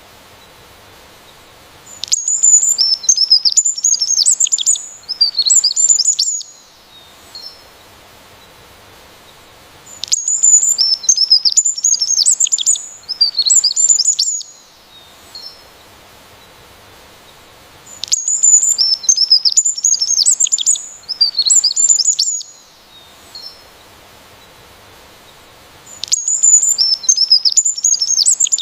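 A songbird singing rapid, high twittering and chirping phrases in bursts of about four seconds, repeating every eight seconds with short quiet gaps between.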